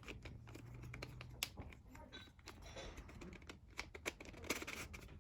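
A 3D-printed ghost 2x2/Skewb hybrid twisty puzzle being turned by hand, its pieces clicking and clacking irregularly as the layers are twisted, with a couple of sharper clacks.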